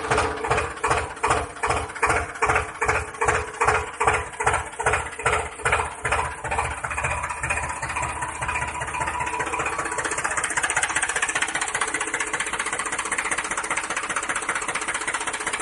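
Small motor of a homemade model tractor running with a rhythmic knock about two and a half times a second. After about eight seconds the knock fades into a steady buzz.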